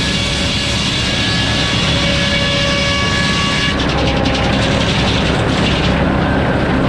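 Circular sawmill's 52-tooth F pattern head saw running, a loud steady machine noise with several held whining tones. About four seconds in, the sound changes and takes on a fine, rapid high rasp.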